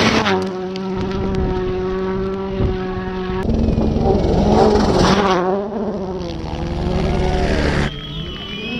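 Rally cars' turbocharged four-cylinder engines at close range. The engine note holds steady for a few seconds, then revs rise and fall sharply with throttle and gear changes, and near the end the sound switches abruptly to another car.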